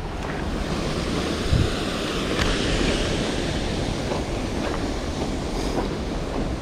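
Mountain stream running full after rain: a steady rush of flowing water, with one low thud about a second and a half in.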